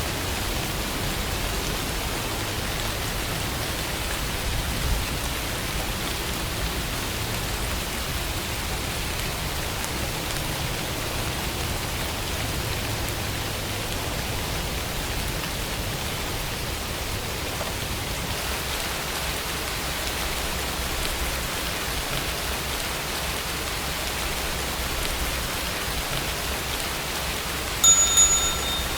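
Steady rain falling. About a second before the end, a short bright chime rings out, the study timer marking the end of the pomodoro session.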